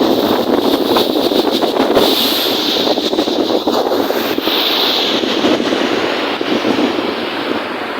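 Steady rush of wind and lake waves, with wind buffeting the microphone in a crackly roar.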